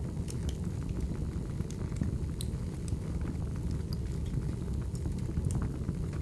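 Firewood burning: a steady low rumble with scattered sharp crackles and pops.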